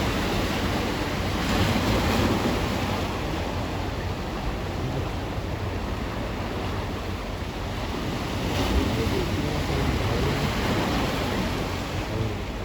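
Sea surf washing onto the shore, with wind on the microphone; the wash swells about two seconds in and again about nine seconds in.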